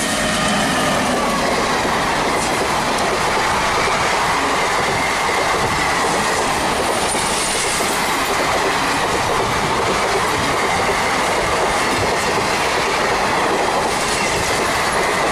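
Express passenger train passing close at speed: a steady, loud rush of steel wheels on rail with clickety-clack over the rail joints, and a faint high whine held throughout.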